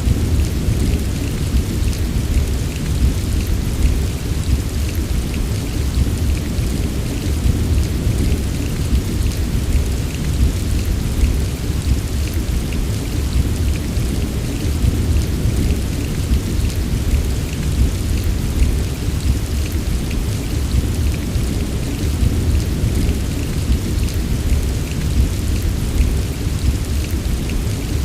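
Heavy rain falling steadily over a constant deep rumble, with faint scattered drop ticks on top and no single thunderclap standing out.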